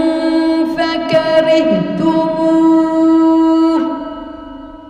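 A woman's voice chanting Quranic recitation in long, drawn-out melodic notes. The last held note stops about four seconds in and trails off in an echo.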